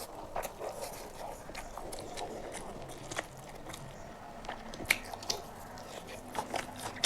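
Close-miked chewing of a mouthful of chicken biryani, with many small wet mouth clicks and smacks.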